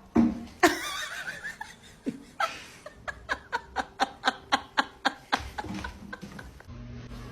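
A person laughing, with a quick run of short, evenly spaced "ha" bursts, about five a second, lasting about two seconds in the middle.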